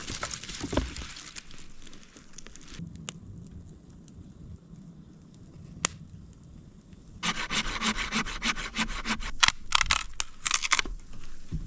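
Hand work on wood: rubbing and scraping, then about seven seconds in a run of quick, rhythmic back-and-forth strokes, about three a second, ending in a few sharper cracks.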